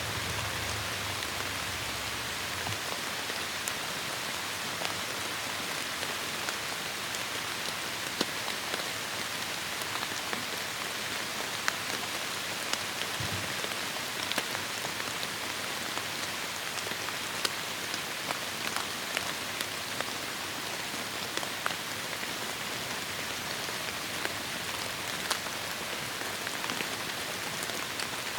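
Heavy rain falling steadily, a dense hiss with many close drops striking as sharp ticks.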